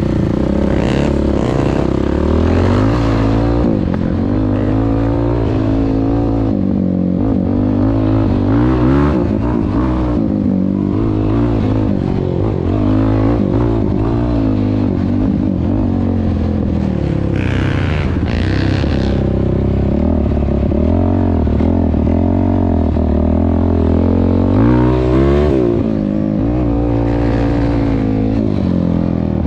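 Yamaha YFZ450R quad's single-cylinder four-stroke engine running through an aftermarket Rossier R5 exhaust while being ridden. The revs rise and fall again and again with the throttle, with a sharp rev-up near the end.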